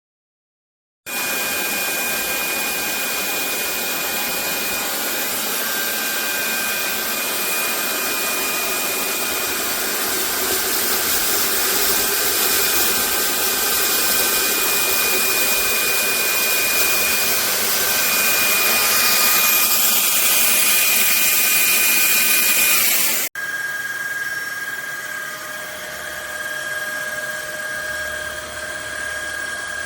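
Fieety cordless stick vacuum cleaner running: a steady rushing noise with a high motor whine, starting suddenly about a second in. Near the end it changes abruptly to a quieter run with a different whine.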